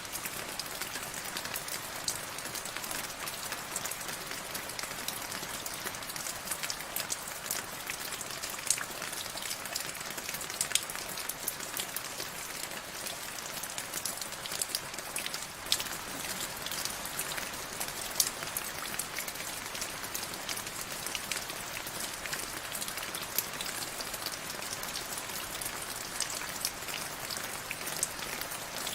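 Steady rain falling on a surface, a dense hiss with many separate drops ticking sharply through it.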